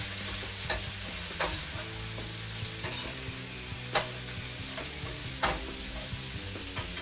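Bell pepper, onion and garlic frying in oil in a wok, a steady sizzle. A few sharp knocks sound over it, the loudest about four seconds in.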